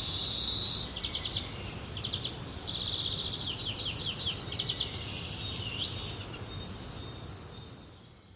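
Songbirds singing: bursts of rapid trills and chirps with a few quick sweeping notes, over a low steady outdoor rumble. It fades out near the end.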